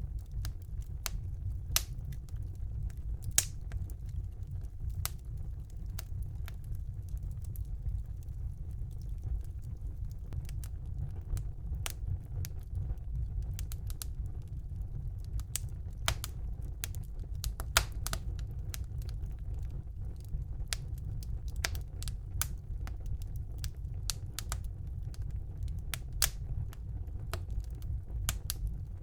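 Wood fire burning in a fireplace: irregular crackles and sharp pops over a steady low rumble, with a few louder pops, about three and a half seconds in and again near eighteen seconds.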